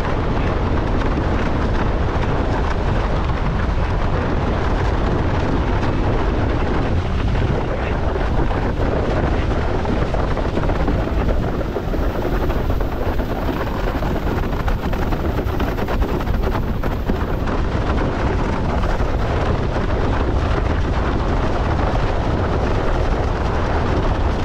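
Steady, loud wind noise buffeting the microphone of a camera carried by a windsurfer while sailing.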